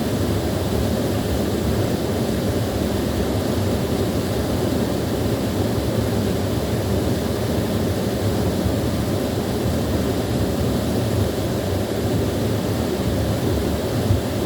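Small waterfall pouring steadily: an unbroken, low-pitched rush of falling water.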